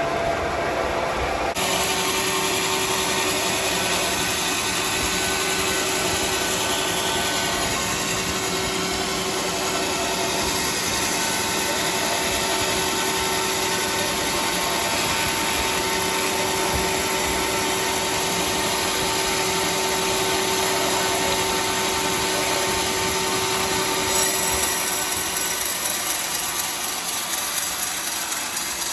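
Homemade band sawmill sawing through a teak log: a steady, loud sawing noise over the machine's running hum. It fills out about two seconds in, and a few seconds before the end the sound shifts and the steady hum drops away.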